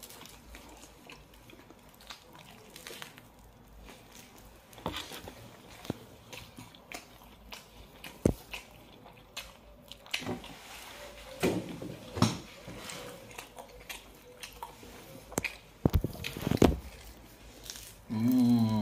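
Mouth sounds of people eating pizza kebab: biting and chewing, with scattered sharp clicks, a few of them loud. A brief hummed voice sound comes near the end.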